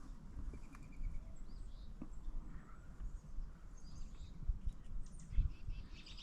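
Faint bird chirps and a short trill over a steady low rumble on the microphone, with a few soft thumps about four and a half and five and a half seconds in.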